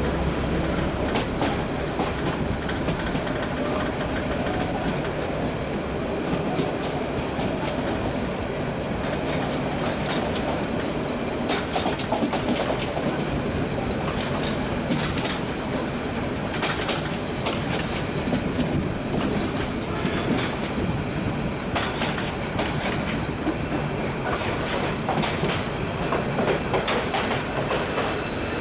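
Passenger train running along jointed track, heard from an open coach window: a steady rumble of wheels and rushing air, with irregular sharp clicks over the rail joints. A thin, high-pitched wheel squeal comes in over the last few seconds.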